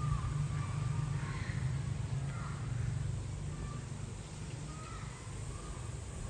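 Birds calling outdoors, a scatter of short caw-like calls, over a steady low hum.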